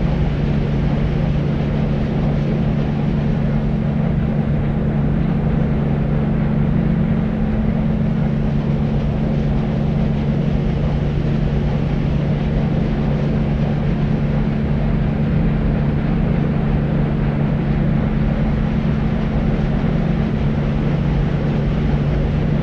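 Deep white noise for sleep: a steady, unchanging low rumbling hiss with a low drone running through it.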